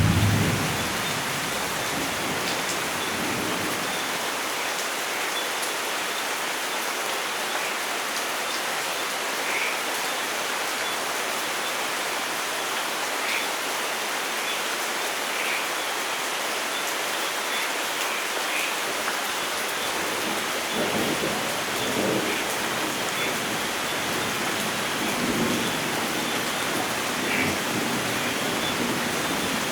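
Steady rain falling, a continuous even hiss. A thunder rumble dies away in the first second, and fainter low thunder rumbles again about two-thirds of the way through.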